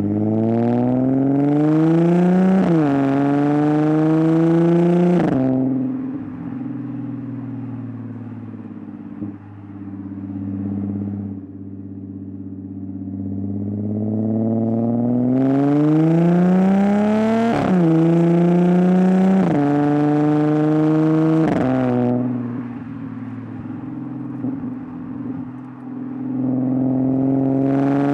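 Audi S4's 3.0 TFSI supercharged V6 through a Scorpion Predator exhaust with the rear silencers deleted, pulling hard through the gears three times. The engine note rises and drops sharply at each upshift, with steadier, quieter cruising between the pulls.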